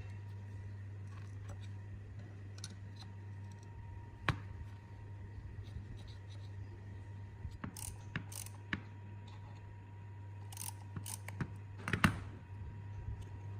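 Scattered clicks and knocks of hand tools working on metal pump parts, loudest about four seconds in and near twelve seconds, over a steady low hum.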